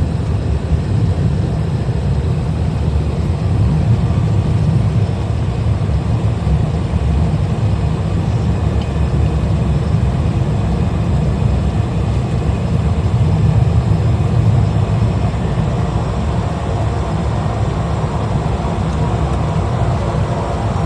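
Single-engine light aircraft's engine and propeller droning steadily as heard inside the cabin in flight, a deep rumble, with a somewhat brighter note coming in over the last few seconds.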